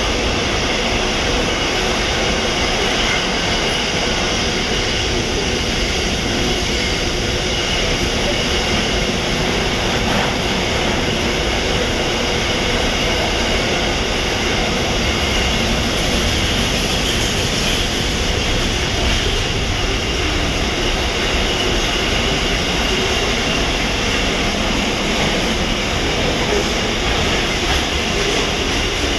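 Freight train's wagons rolling past at speed: a steady, loud rumble and clatter of steel wheels on the rails, with a faint thin high ringing over it.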